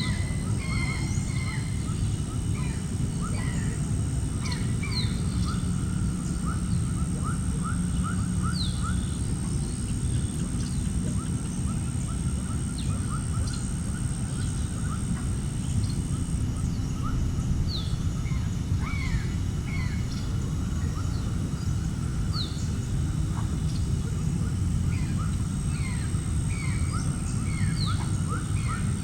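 Birds chirping and calling, many short notes and some quick runs, over a steady low rumble, with a thin high whine.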